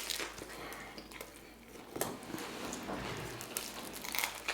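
Person eating close to the microphone: irregular soft chewing, clicks and rustles of food and hands.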